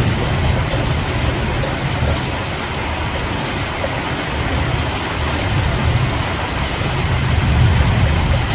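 Steady rain falling, an even hiss with a deep, wavering low rumble beneath it and faint scattered drop ticks.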